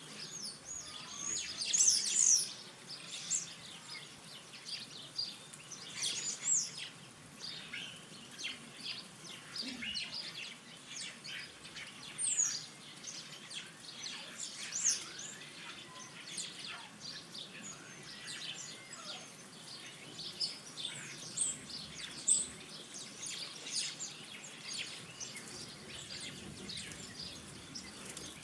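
Small garden birds calling and chirping: a steady scatter of many short, high chirps and twitters from several birds, with a few louder calls about two seconds in and about twelve seconds in.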